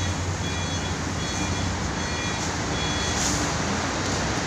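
Truck reversing alarm beeping about once a second, stopping about three seconds in, over the steady hum of a running engine.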